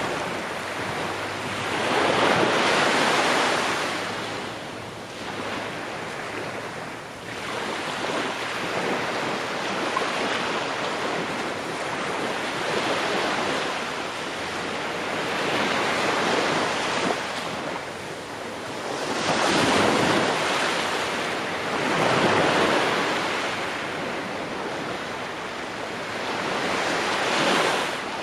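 Ocean waves breaking on a shore, the surf swelling and easing every few seconds in a continuous wash.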